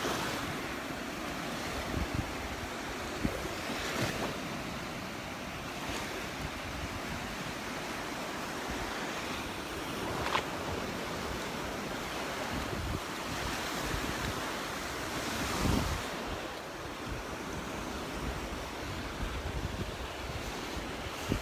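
Small surf breaking and washing up the beach, with wind buffeting the microphone.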